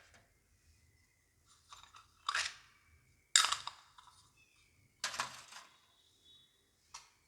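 Small toy kitchen pieces being handled and set down: four sharp clacks, about a second or so apart, some leaving a brief faint ring.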